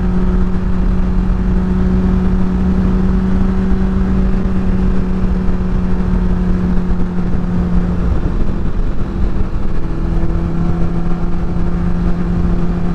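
Motorcycle engine running steadily at cruising speed in fourth gear, with low wind rush on the helmet microphone. The engine note dips about eight seconds in, then settles back slightly lower.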